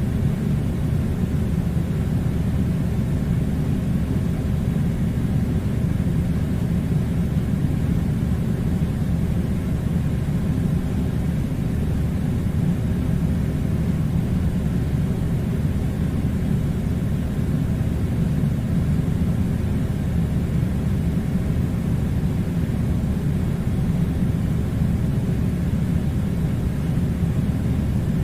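Steady low rumbling noise that does not change.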